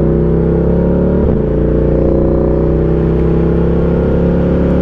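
Ducati Diavel 1260's 1262 cc Testastretta V-twin engine pulling along at road speed over a hiss of wind. A brief break in the note about a second in sounds like a gear change, and the engine note then climbs slowly.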